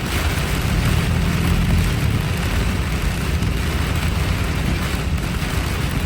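Heavy rain falling on a car, heard from inside the cabin, over the steady low rumble of the car's engine and tyres.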